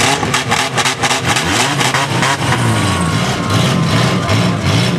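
Engines of several demolition-derby compact cars running and revving up and down, with a quick run of sharp crackles in the first couple of seconds.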